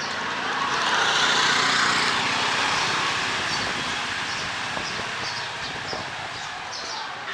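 A light-engined vehicle passing on a wet street: engine and tyre hiss swell about a second in, then slowly fade away.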